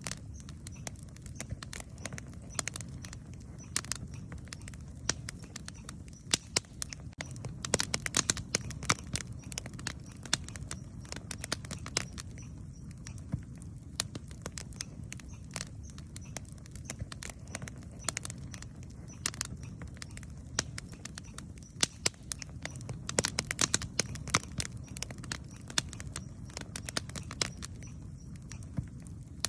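Campfire crackling: irregular sharp pops and snaps, coming thicker in a couple of flurries, over a low steady rumble.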